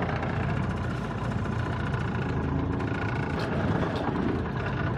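Diesel engine of a 1985 Freightliner cabover semi truck running steadily at low speed while the truck is slowly maneuvered into a tight spot.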